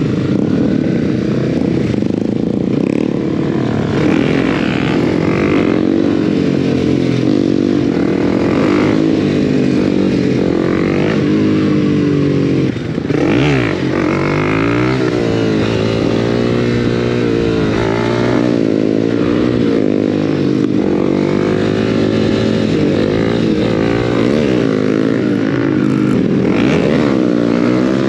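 Honda CB300's single-cylinder engine, fitted with an aftermarket exhaust, on the move: it revs up and falls back again and again through the gears, with a brief drop in loudness and pitch where the throttle closes about 13 seconds in.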